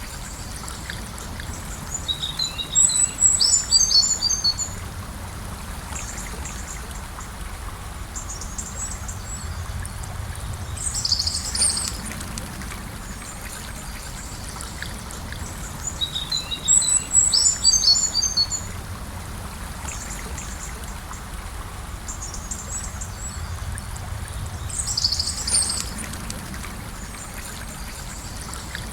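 Gentle river flowing steadily, with songbirds singing above it in four bursts of quick, high chirping notes.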